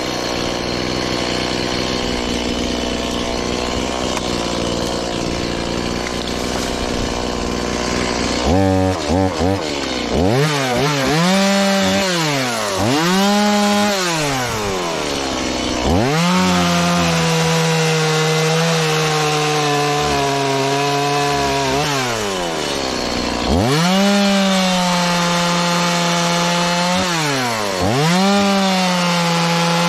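Stihl MS180 chainsaw, a small 31.8 cc two-stroke, cutting wood: held at high speed for the first eight seconds or so, then revved up and let fall back several times, with two longer stretches held at speed in between.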